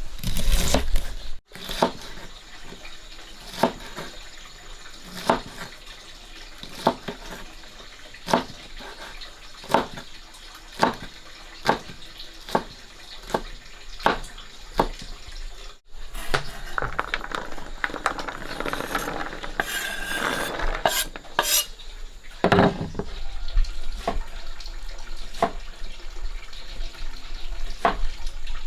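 Kitchen work with utensils and dishes. Sharp knocks come roughly once a second, then a stretch of running water with clattering dishes and one loud knock, then more knocks.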